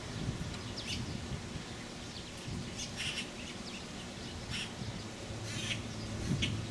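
Birds chirping in short, separate calls about every second or so. A low steady hum comes in near the end.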